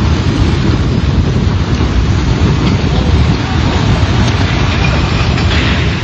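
Heavy rain in a storm: a loud, steady rushing noise with a deep rumble under it.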